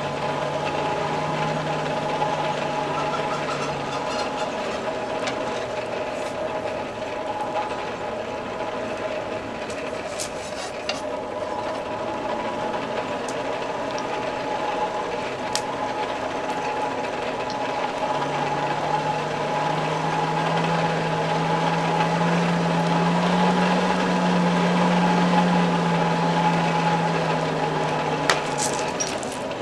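Coal forge blower running steadily with a constant whine while the fire comes up to forging heat. A deeper hum fades out a few seconds in, then comes back about two thirds of the way through, rising a little in pitch and loudness before dropping away near the end.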